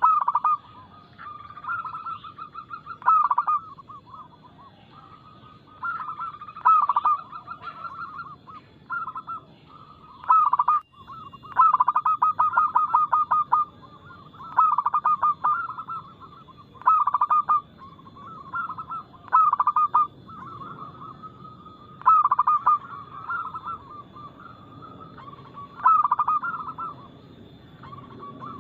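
Zebra doves (perkutut) cooing: short phrases of rapid pulsed coos repeat every second or two, some overlapping, over a faint steady high tone.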